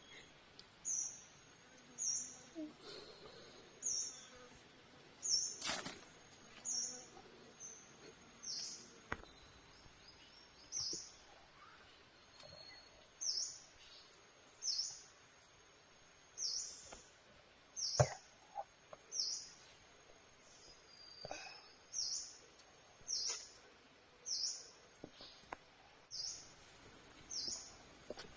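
A bird calling over and over: a short, high chirp that drops in pitch, repeated roughly every second to second and a half. A faint steady high whine sits underneath, and there are two sharp clicks, one about a quarter of the way in and a louder one past the middle.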